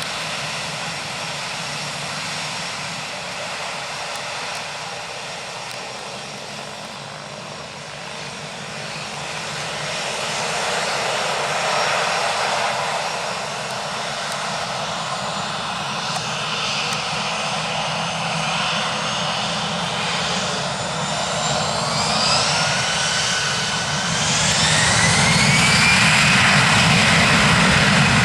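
Airbus A320's twin CFM56 turbofan engines running with a steady noise, then spooling up: a rising whine from about the middle that climbs and grows louder toward the end, as for thrust being applied for takeoff.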